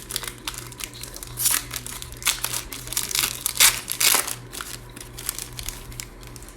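Plastic trading-card pack wrapper being torn open and crinkled by hand, in irregular crackling bursts, loudest a little past the middle.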